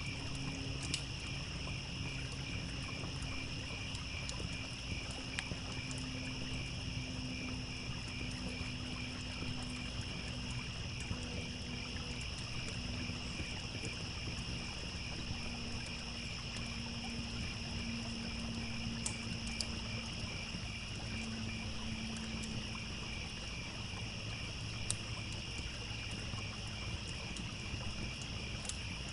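Crickets chirping in a steady, rhythmic chorus over the low rush of a trickling stream, with a few sharp crackles and pops from a campfire.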